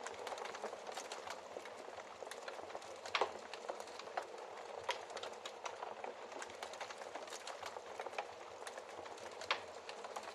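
Wood fire in a fireplace crackling, a steady low hiss of burning with frequent sharp pops and snaps, two louder pops about three seconds in and near the end.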